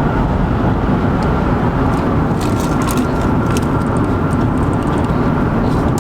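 Steady road and engine noise inside a car cruising at highway speed: a continuous low rumble with a few faint ticks.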